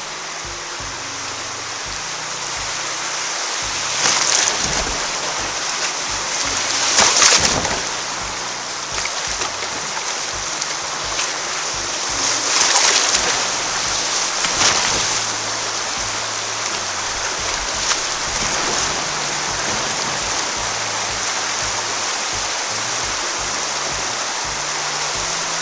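Rushing creek water running through riffles, with louder splashes and surges a few times.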